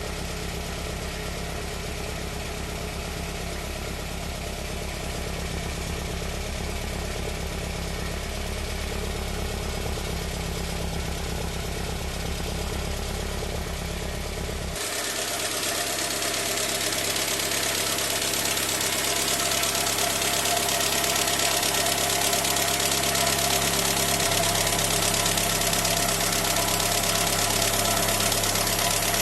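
Renault 4L GTL four-cylinder petrol engine, freshly serviced, running steadily at idle. About halfway through the sound changes suddenly, losing low end and becoming brighter, and it grows slightly louder toward the end.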